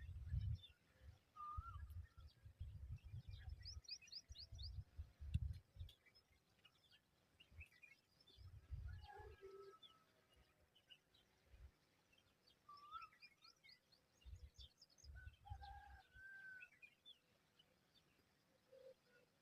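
Faint bird calls: scattered short chirps and whistled notes with a couple of quick trills, over intermittent bursts of low rumble.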